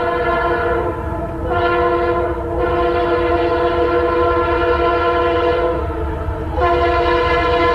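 Locomotive multi-note air horn sounding a chord in a run of held blasts, the longest about four seconds, over the low rumble of a fast-moving train.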